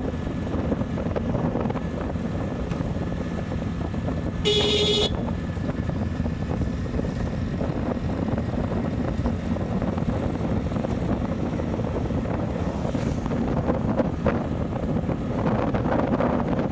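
Motorcycle on the move, with steady engine and wind rumble. A single short vehicle horn honk, about half a second long, sounds some four and a half seconds in.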